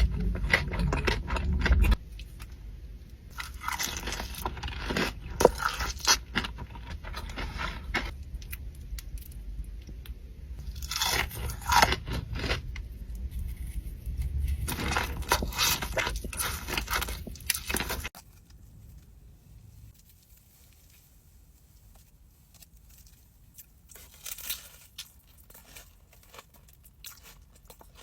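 A person biting and chewing crunchy food close to the microphone, with crisp crunches in clusters. About eighteen seconds in the sound drops away and only faint, sparse chewing clicks are left.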